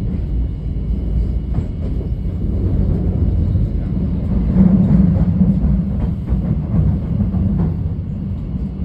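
Thameslink Class 700 Desiro City electric train running along the track, heard from inside the carriage: a steady low rumble of wheels on rail and motor hum, swelling a little around the middle.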